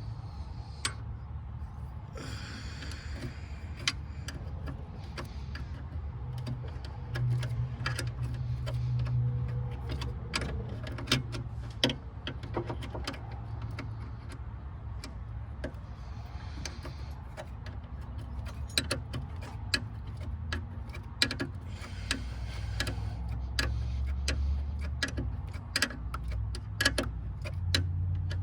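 Ratchet wrench clicking in short irregular runs as bolts are tightened, with small metal taps of tools, over a steady low hum.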